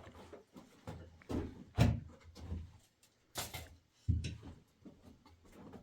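Irregular knocks and thumps with short scraping sounds, the loudest thump a little under two seconds in and another about four seconds in.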